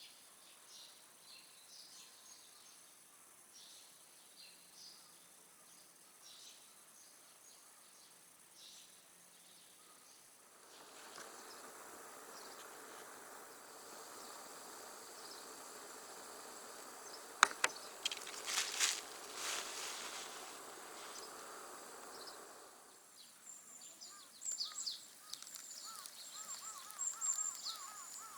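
Outdoor chirping of birds and insects, with a steady hiss rising in the middle and falling away again about ten seconds later; two sharp clicks, the loudest sounds, come during the hiss.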